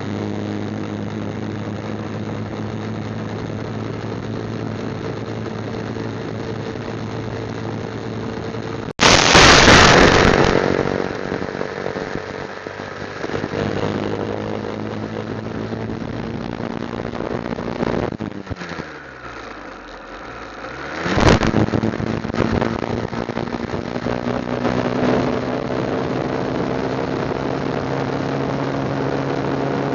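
Motorcycle engine running on the move. About nine seconds in, a loud rush of noise starts suddenly and fades over a few seconds. Near twenty seconds the engine note drops and then climbs again, and it rises slowly toward the end.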